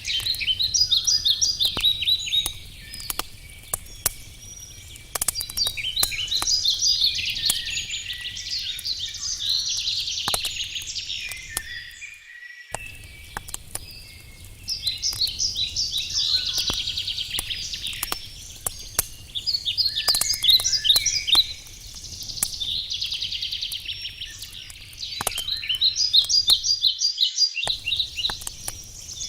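Wood campfire crackling with scattered sharp pops, under songbirds singing repeated phrases of fast chirping notes every few seconds. The whole sound cuts out briefly twice.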